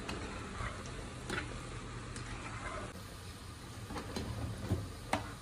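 Battered onion pakoras sizzling as they deep-fry in hot oil in a steel pan, with a few light clicks of a metal spoon against the pan as they are turned.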